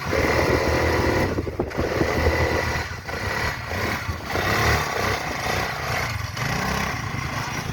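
Quad bike engine running, its pitch and loudness rising and falling with the throttle.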